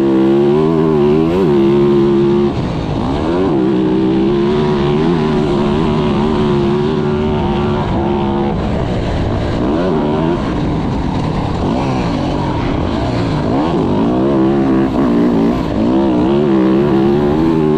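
Dirt bike engine running under load, its pitch rising and falling repeatedly with throttle and gear changes.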